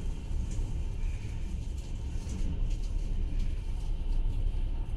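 Passenger train running along the line, heard from inside the carriage: a steady low rumble of the wheels on the track.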